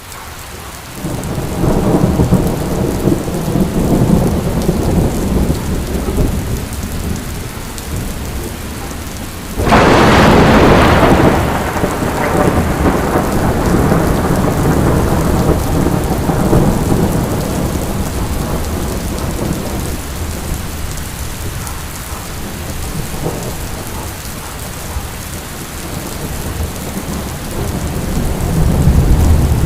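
Heavy rain falling steadily in a thunderstorm. A sudden loud thunderclap strikes about ten seconds in and rumbles away over the next few seconds, with lower rolling thunder early on and building again near the end.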